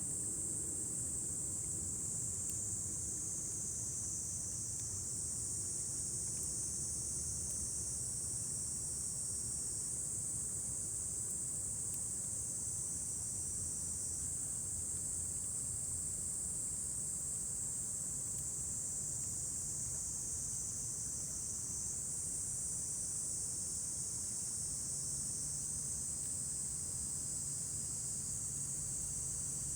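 Steady, high-pitched chorus of many insects trilling together, with a low rumble underneath.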